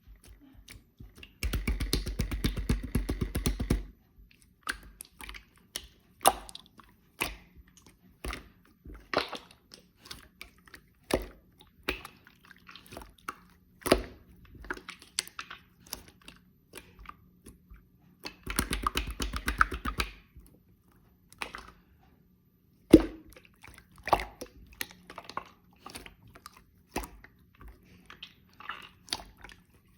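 Slime being squished and pressed by hand: scattered wet clicks and pops, with two bursts of rapid crackling popping of about two seconds each, one near the start and one about two-thirds of the way through.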